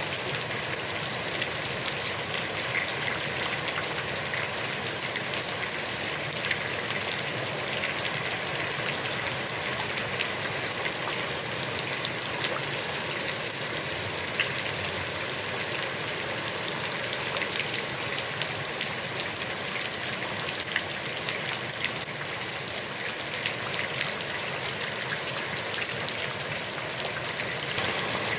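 Heavy rain falling onto a pond's water surface: a steady, dense hiss of rain filled with countless small drop ticks.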